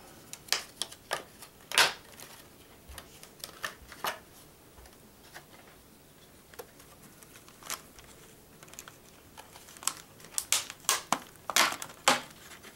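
Handling of desktop memory sticks: scattered sharp clicks and short rustles, bunched in the first couple of seconds and again near the end, with a quieter stretch between.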